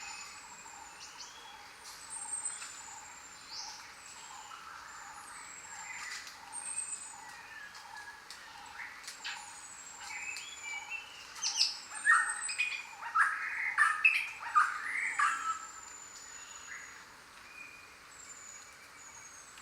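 Many jungle birds calling at once: thin high whistles that fall in pitch and a mix of chirps and short calls, with a louder run of calls a little past the middle. A steady pulsing background runs under them.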